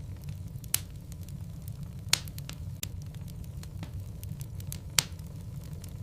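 Wood fire burning in a fireplace: a steady low rumble of the flames with irregular crackles and pops from the burning logs, three sharper pops standing out about a second in, about two seconds in and near the end.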